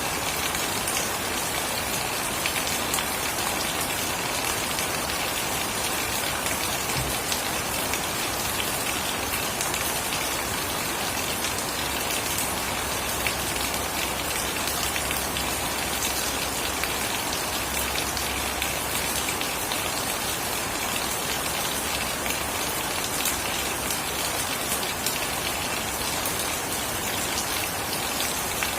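Steady heavy rain falling and pattering on surfaces, a dense even hiss full of fine drop impacts.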